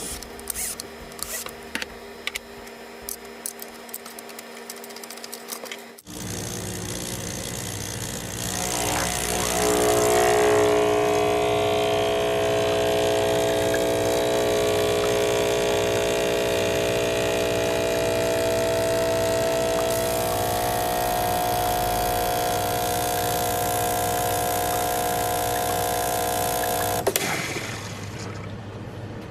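Espresso machine's vibratory water pump running: a steady, loud buzz that builds up over a second or two, holds for about eighteen seconds and cuts off abruptly. Before it come a few faint clicks of handling.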